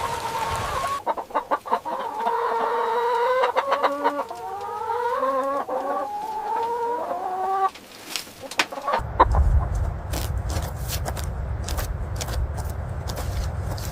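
Chickens clucking and calling in a run of short pitched calls. About nine seconds in, the sound changes abruptly to a low rumble with scattered clicks.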